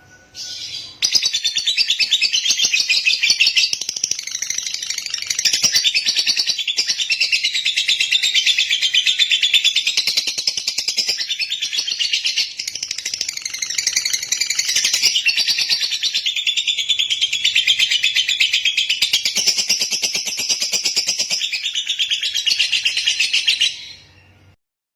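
Lovebird chattering in one long unbroken stream of rapid, high, shrill chirps. It starts about a second in, dips briefly about halfway, and stops shortly before the end.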